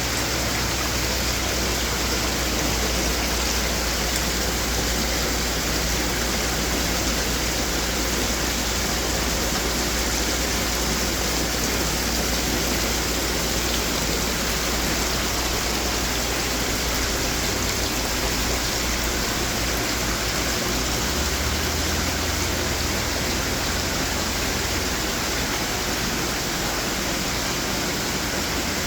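Running garden water fountains: a steady rush of falling and splashing water.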